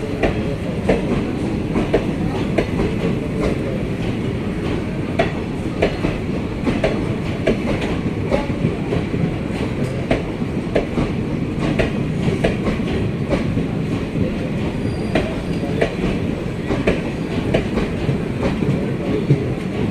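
Passenger train running on the rails: a steady rumble with frequent short clicks of the wheels going over rail joints.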